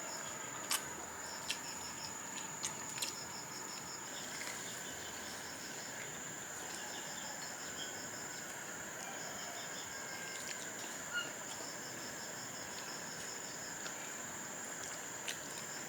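Insects chirring: a steady high-pitched drone, with repeated trains of rapid pulsing chirps. A few sharp clicks or taps, the loudest a little under a second in.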